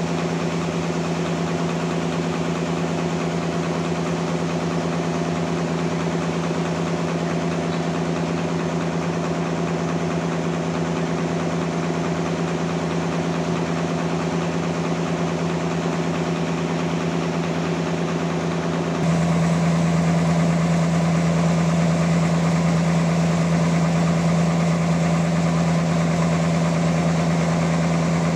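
Sawmill machinery running steadily, a constant engine-like hum with a strong low tone. About two-thirds of the way through the sound steps up abruptly and gets louder.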